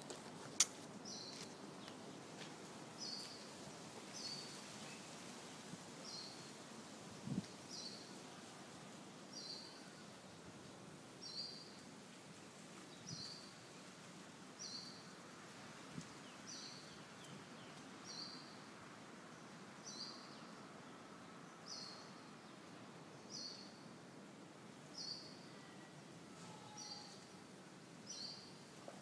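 A bird repeats a short, high-pitched call about every second and a half, steadily, over faint outdoor background noise. There is a sharp click near the start and a soft thump about seven seconds in.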